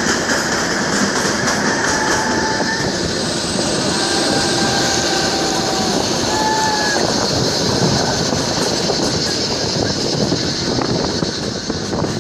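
Kalka–Shimla narrow-gauge toy train running, a steady rumble of wheels on rail. A few short, high wheel squeals come in the first seven seconds.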